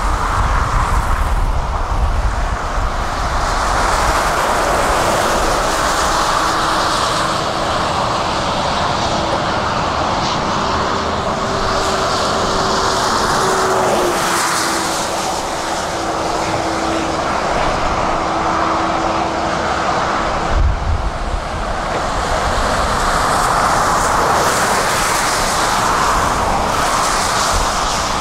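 Heavy diesel construction machinery running steadily at working revs. A steady whine sounds over the engine noise for much of the time, stepping slightly lower in pitch about halfway.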